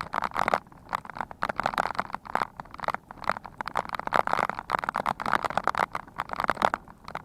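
Bicycle riding over rough ground, with dense irregular rattling and crackling throughout.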